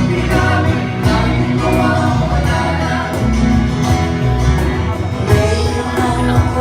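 Live acoustic band music: voices singing a Filipino folk song over guitars and bass guitar, with a steady beat.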